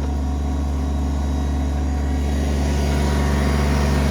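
Kubota BX23S compact tractor-loader-backhoe's three-cylinder diesel engine running steadily under work, rising slightly in level near the end.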